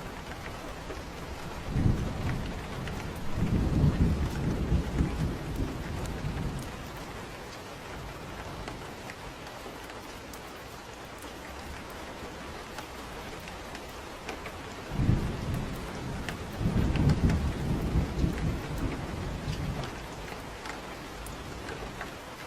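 Steady rain with two rolls of thunder. One starts about two seconds in and rumbles for around four seconds; the other starts about fifteen seconds in and rumbles for about five.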